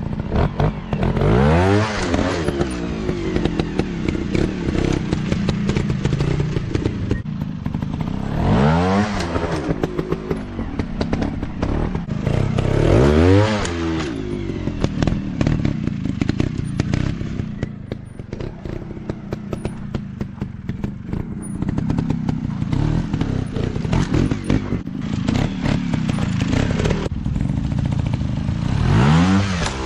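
Dirt bike engines running with four sharp rev-ups, the pitch climbing steeply each time, about a second in, near 8 s, near 13 s and near the end, over steady engine noise with clattering and knocks.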